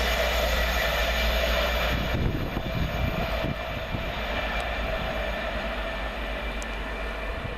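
Class 91 electric locomotive and its InterCity 225 coaches passing through on the main line: rushing wheel-on-rail noise and rumble with a steady humming tone, fading as the train draws away.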